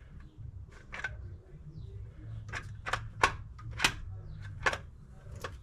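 A new HEI distributor being worked down into its seat on a 400 small-block Chevy engine: a run of sharp metal clicks and knocks, about seven of them, the loudest three near the middle, over a steady low hum.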